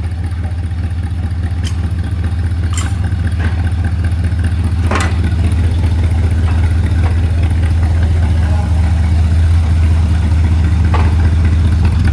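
1972 Corvette's 350 small-block V8 idling steadily after a saltwater flood, growing slowly louder, with a few short clicks over the engine.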